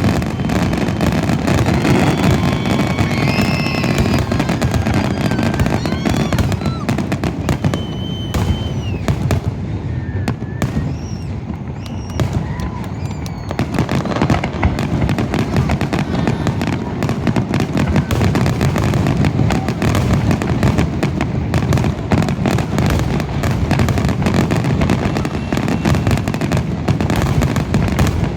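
Fireworks finale: a continuous dense barrage of shell bursts and crackle, easing slightly for a few seconds in the middle before building back up. A few high whistles glide over it in the first half.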